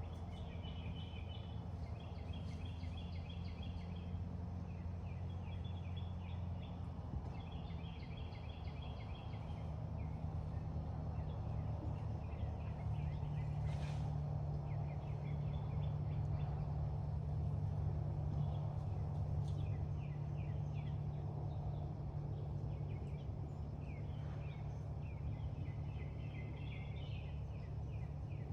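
A steady low drone, its pitch stepping up slightly midway, with short bursts of rapid chattering bird trills repeating every couple of seconds above it.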